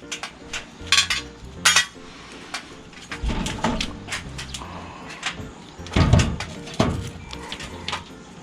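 Hammer striking nails into corrugated sheet-metal siding: a string of light metallic taps and clinks, with a few heavier blows about three, six and seven seconds in. Faint background music under it.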